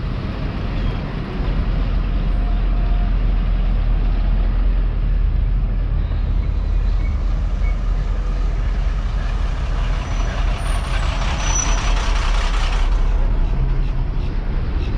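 Street traffic with a large vehicle such as a truck or bus passing close, running with a steady deep rumble. A hiss builds over several seconds and cuts off suddenly about two seconds before the end.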